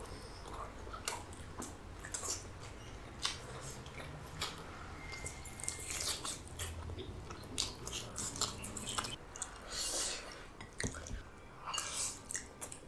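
A person chewing food close to the microphone: irregular wet smacks and clicks of the mouth, with an occasional crunch.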